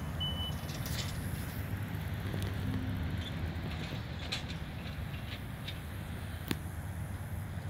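Steady low rumble of distant vehicle engines, with one high reversing beep right at the start and a single sharp click about six and a half seconds in.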